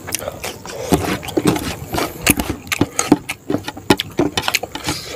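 Close-up eating sounds: crunching and chewing raw cucumber, about two or three crisp crunches a second.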